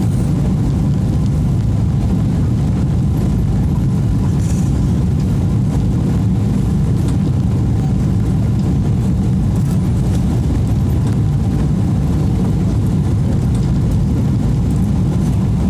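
Steady low rumble inside the cabin of a Boeing 777-300 airliner: engine and airflow noise, even throughout with no thumps or announcements.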